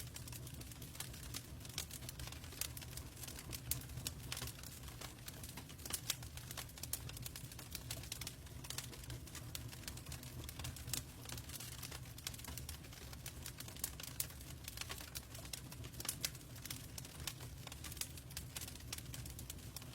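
Logs burning in a fireplace: a steady stream of irregular crackles and pops over a steady low rumble.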